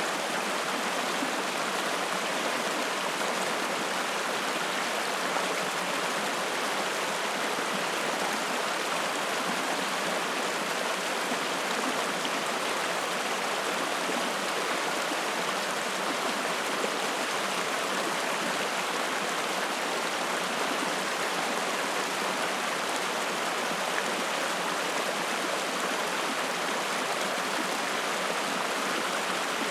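Spring-fed mountain stream running and splashing, a steady, even rush of water that does not change.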